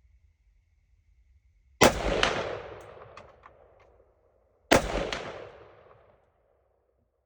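Two rifle shots about three seconds apart, each followed by an echo that rolls away over a second or two, fired to check the scope's zero at 100 yards.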